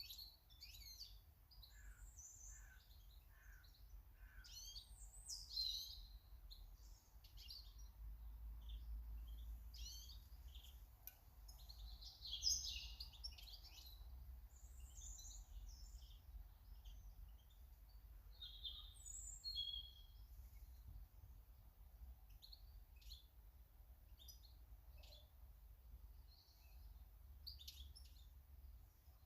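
Faint chirps and snatches of song from small garden birds, many short high notes coming in quick, irregular runs, over a steady low rumble.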